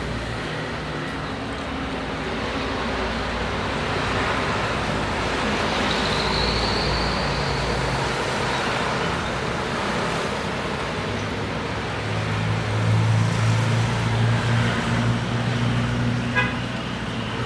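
Road traffic going by: a steady rush of vehicle noise, with an engine's low hum growing stronger in the second half.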